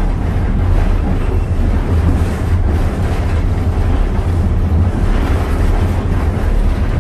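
A train of passenger coaches behind steam locomotive No. 2023 rolling along the track, heard as a steady low rumble with running and wind noise.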